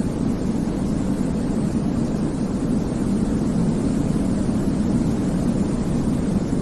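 Steady baby-sleep white noise, a deep, even rushing hiss with most of its weight low down, unchanging throughout.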